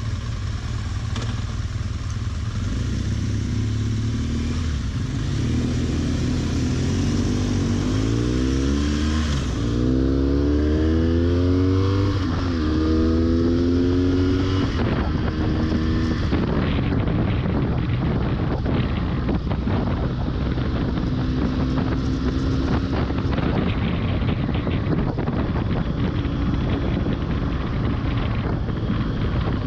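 Motorcycle engine accelerating hard through several gears: its pitch climbs, drops at each shift and climbs again. From about halfway, rushing wind buffeting the bare camera microphone at speed largely drowns out the engine.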